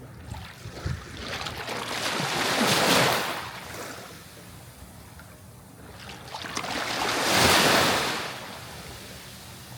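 Sea waves breaking, two in turn: each swells up to a loud hiss and then fades away, about four and a half seconds apart.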